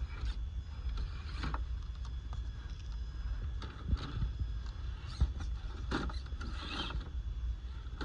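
RC crawler truck driving over rough, wet trail: irregular clicks and crunches from its tyres and drivetrain over a steady low rumble, busiest near the end.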